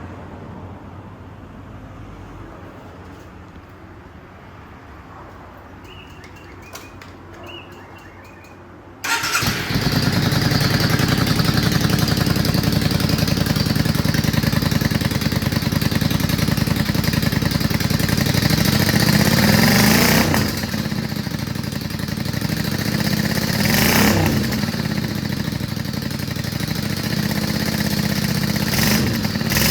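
Yamaha Drag Star 400's air-cooled V-twin with slash-cut mufflers: after a few faint clicks it starts about nine seconds in and runs steadily, with the throttle blipped into brief rising-and-falling revs a few times.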